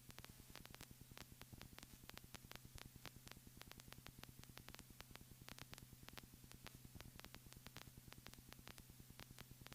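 Near silence: the aircraft's intercom audio feed with a faint steady hum and a rapid, even run of faint ticks, the electrical noise on the cockpit audio line between radio calls.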